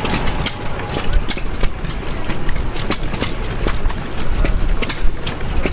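Antique gas engines running together, a jumble of sharp irregular pops and clicks, several a second, over a low rumble.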